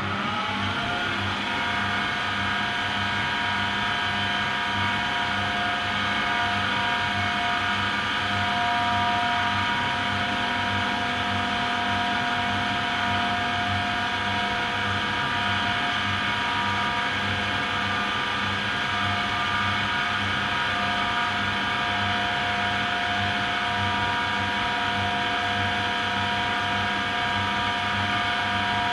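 AEG Lavamat Turbo washer-dryer spinning its drum at high speed. The motor whine rises to speed in the first second or two, then holds steady over a fast low rumble from the turning drum.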